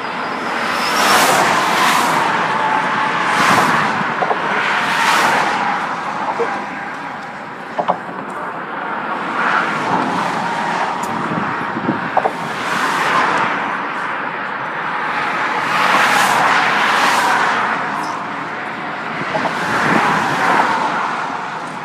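Road traffic passing close by, cars going past one after another, each a swell of tyre and engine noise that rises and fades, about eight in all, with a few faint clicks between them.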